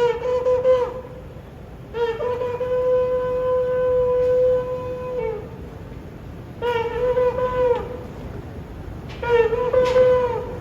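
A horn blown in separate blasts: a short phrase of notes that bend down at their ends, then a long held note starting about two seconds in, then two more short bending phrases near the middle and end.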